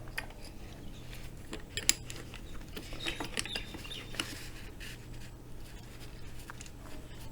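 Light metal clicks, taps and scraping as a piston and its freshly oiled wrist pin are handled and fitted onto the connecting rod, with one sharper click about two seconds in and a cluster of clicks a little after three seconds. A low steady hum runs underneath.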